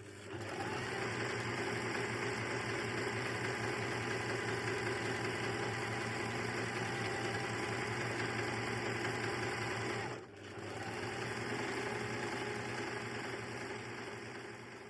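Sewing machine running steadily at speed, stitching a seam, with a brief slow-down about ten seconds in before it carries on and stops at the end.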